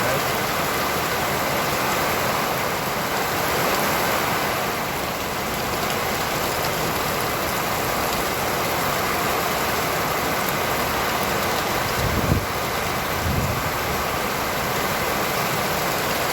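Heavy rain falling steadily, with traffic on a wet street. Two short low rumbles come about twelve seconds in and a second and a half later.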